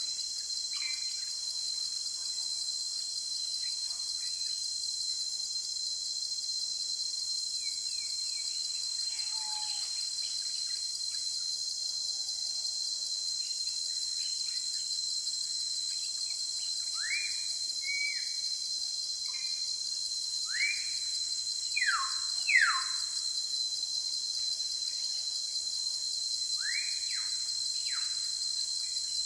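A steady, high-pitched insect drone, with a bird giving short, sharply falling calls over it, most of them coming in a cluster in the second half.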